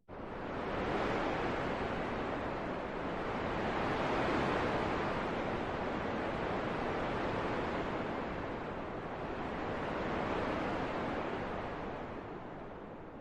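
Wind blowing: a steady rushing noise that swells and eases in slow gusts. It fades in just after the start and fades out toward the end.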